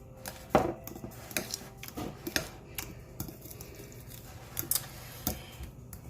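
Irregular clicks and clinks of a utensil against a dish as softened, partly melted butter is mashed together, with a sharper knock about half a second in and again near the end.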